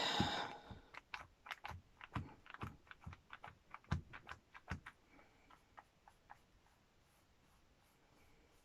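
Light, irregular taps and clicks of small objects being handled on a tabletop, frequent for about five seconds and then dying away to faint room noise.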